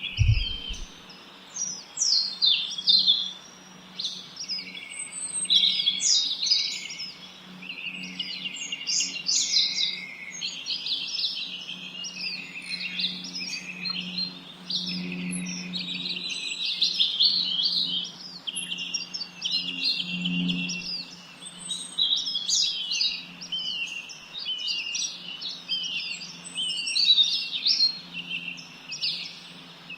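A chorus of small songbirds chirping and twittering in dense, overlapping bursts without pause, over a faint steady low hum.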